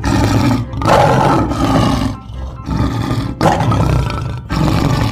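Lion roaring: a few long roars with short breaks between them.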